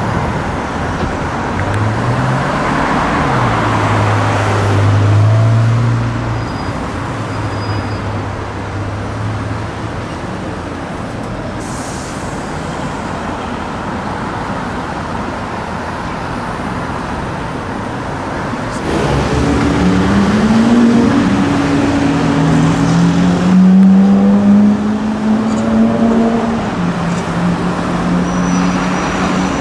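Car engines in city traffic with steady road noise: a low, steady engine note in the first third, then, from about two-thirds of the way through, a louder engine accelerating, its pitch rising and dropping back several times as it pulls away.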